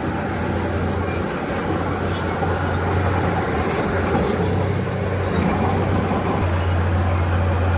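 Diesel engine of heavy earth-moving machinery running steadily with a constant low hum, with scattered short, high squeaks over it.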